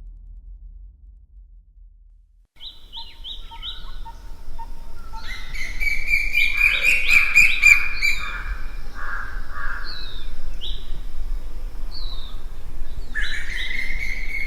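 Several birds chirping and singing over a low steady rumble. The birds start about two and a half seconds in with quick repeated downward-sliding chirps, and a denser run of notes comes in the middle.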